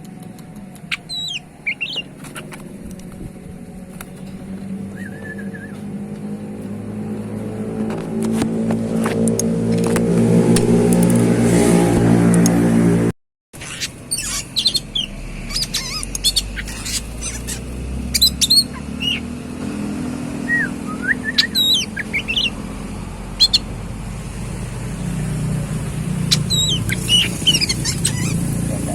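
Oriental magpie-robin (kacer) giving short, sharp chirps and whistles in scattered bursts. A motor vehicle engine grows steadily louder through the first half, drowning the bird out. The sound drops out for a moment a little before the middle; the bird calls then continue over a lower engine hum.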